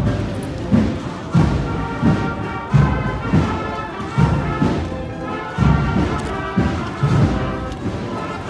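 Processional band playing a slow march: a bass drum beats about every two-thirds of a second under held chords from the wind instruments.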